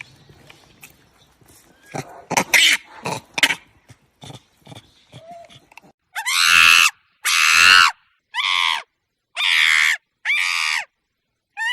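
Animal calls: scattered short calls, then about six seconds in a run of five loud, harsh squeals, each under a second long and separated by short clean silences.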